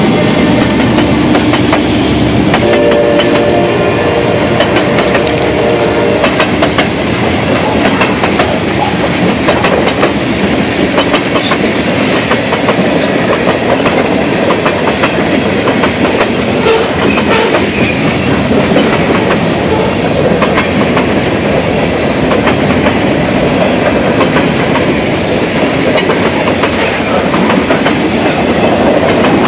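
CSX manifest freight train passing close by at speed: a steady rolling rumble with rapid clickety-clack of steel wheels over rail joints. During the first six seconds or so, steady pitched tones sound over it as the last locomotive goes by. After that come the freight cars.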